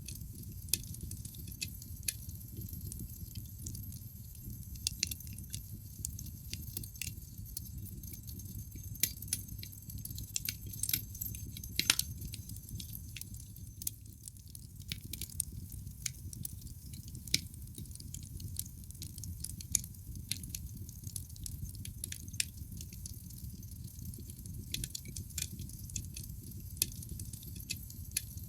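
Wood fire burning in a fireplace: irregular crackles and pops from the burning logs over a steady low rumble of the flames, with one sharper pop about twelve seconds in.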